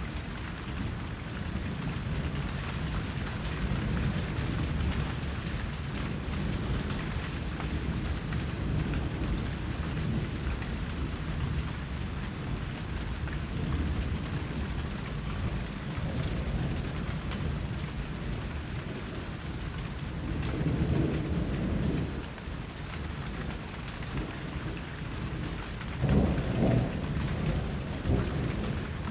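Steady rain with low thunder rumbling beneath it. The thunder swells about two-thirds of the way through, and comes again more sharply near the end.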